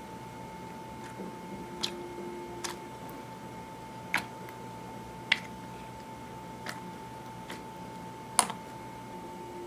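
Clear slime being worked by hand, giving about six sharp, irregularly spaced clicks and pops as air pockets in the slime burst.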